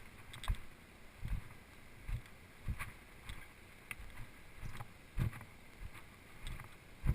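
Footsteps of a hiker walking on a rocky dirt trail: a steady run of low thumps, one roughly every three-quarters of a second, with light scuffs and clicks on each step, over a faint steady hiss.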